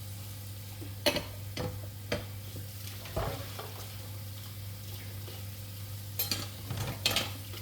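Kitchen utensil knocking and scraping against a cooking pot: a few sharp clinks in the first couple of seconds, another a little after three seconds, and a cluster near the end, over a steady low hum.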